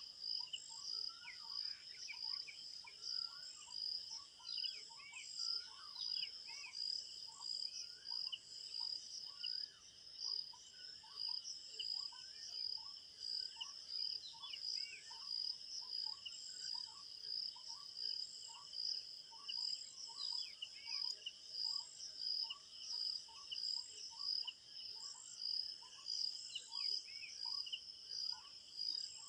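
Crickets chirping in a steady, pulsing high trill, with many short bird chirps repeating quickly underneath.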